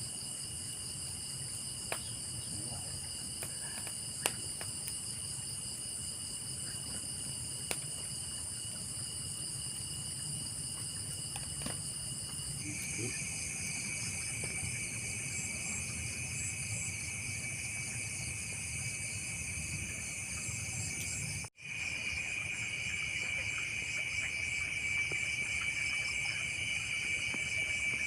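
Chorus of night insects: steady, high-pitched trilling in several pitches at once. The chorus changes about halfway through, its lowest trill dropping a little in pitch, and it cuts out for a split second about three-quarters of the way through.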